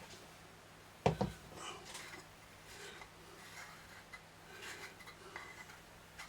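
The metal top of a microphone's can being handled and fitted back on: one sharp metallic knock about a second in, then faint scraping and small clicks as it is worked into place.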